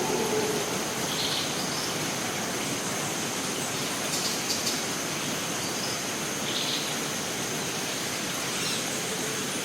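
Costa Rican rainforest ambience: a steady hiss of falling water under a continuous high insect drone, with a few short bird chirps.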